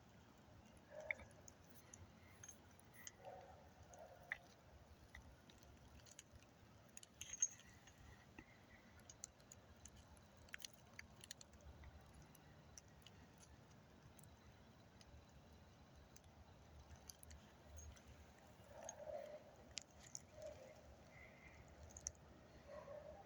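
Near-silent night air with a few faint, short dog barks far off, about a second in, around three to four seconds, and again near the end. Small sharp clicks close to the microphone come and go throughout.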